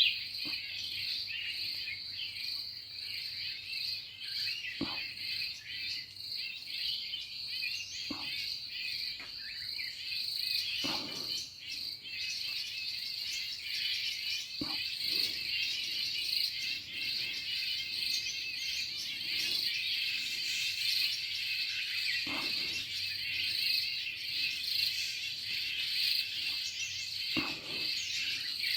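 A steady, high insect chorus with birds chirping throughout, broken by several short soft knocks.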